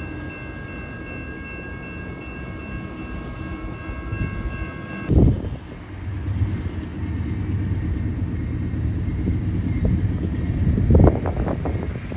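A train passing, its horn sounding as a steady chord for about the first five seconds. After an abrupt change, a low rolling rumble of the train continues, with two loud low thumps, one about five seconds in and one near the end.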